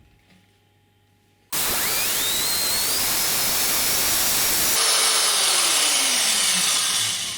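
Restored Black and Decker electric drill switched on, its motor spinning up with a rising whine over a loud hiss of brush and fan noise. About three seconds later the note changes and the whine falls steadily in pitch as the motor winds down, fading out at the end.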